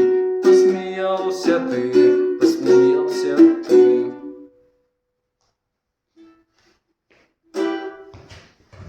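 The closing chords of a song on a strummed string instrument. The last chord rings out and stops about four and a half seconds in. After a few seconds of silence, one short strum sounds near the end, followed by faint handling noise.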